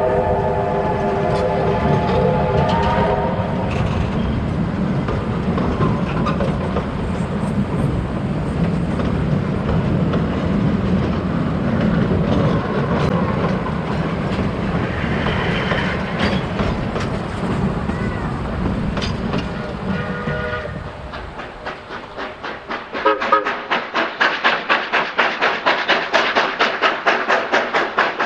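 Narrow-gauge steam locomotive No. 40 sounds its chime whistle, which stops about three seconds in. The train's heavy running rumble follows as it passes, with a short whistle toot about twenty seconds in. Near the end comes a fast, even clatter of rapid beats.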